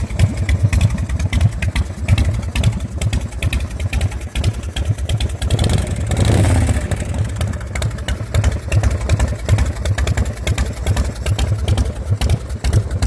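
1999 Bourget Low-Blow chopper's 98-inch S&S V-twin running in rapid, throbbing firing pulses, with a brief throttle blip about halfway through.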